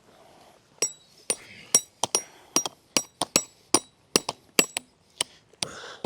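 Tent pegs being hammered into the ground: a quick, uneven run of sharp blows, roughly three a second, many with a short metallic ring.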